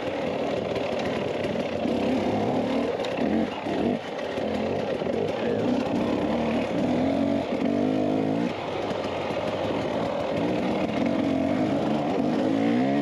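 Dirt bike engine running under way, its pitch rising and falling repeatedly as the throttle is opened and eased off.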